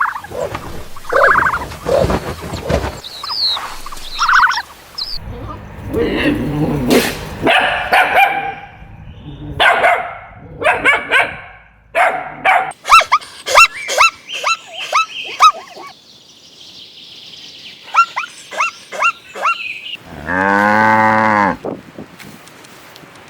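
A run of short, repeated animal calls, then a single long cow moo, rising and falling in pitch, about twenty seconds in.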